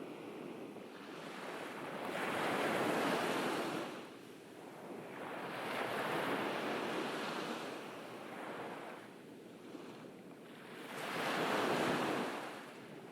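Ocean waves breaking on a beach, three swells of surf rising and falling about every four seconds, with some wind on the microphone.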